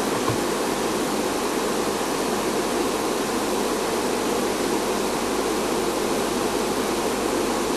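A steady rushing hiss, even throughout, with no calls or distinct events in it.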